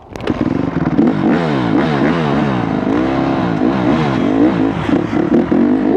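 Dirt bike engine being revved hard on and off the throttle, its pitch swinging up and down many times, with at times a second engine note crossing it.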